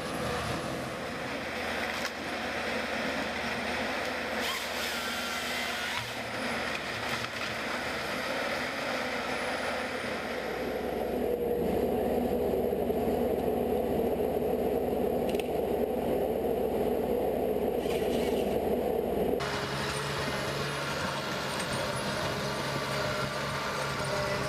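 Wood-processing machinery running, a steady mechanical noise that changes abruptly about eleven seconds in and again about nineteen seconds in, as one machine gives way to another.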